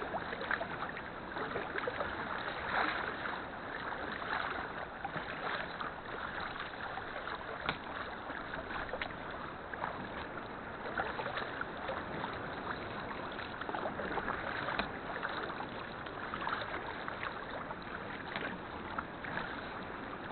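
Sea kayak being paddled: paddle blades dipping and water splashing and trickling against the hull, a steady wash of water noise broken by many small splashes.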